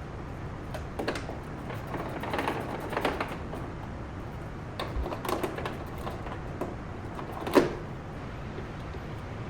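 Irregular light clicks and knocks, in clusters early on and about five seconds in, with one sharper knock about three-quarters of the way through, over a steady low hum.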